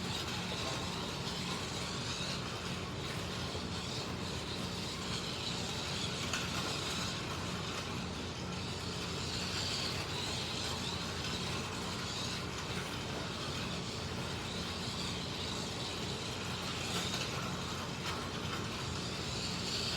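Slot cars running on the track: small electric motors whining over a steady rumble, swelling and fading every few seconds as the cars come past.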